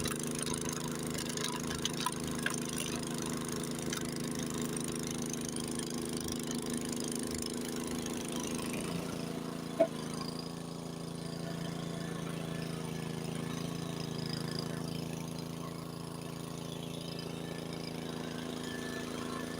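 Old Honda HS80 tracked snowblower's engine running steadily under load as it works through deep snow. About nine seconds in its note drops a little and settles lower. A single short click comes a moment later.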